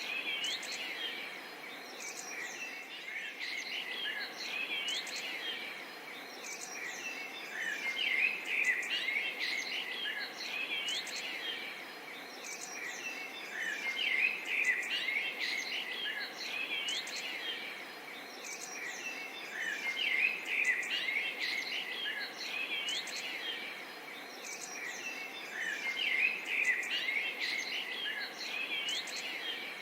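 A chorus of many birds chirping and calling, with quick rising and falling whistles that swell in busy clusters about every six seconds over a steady background hiss.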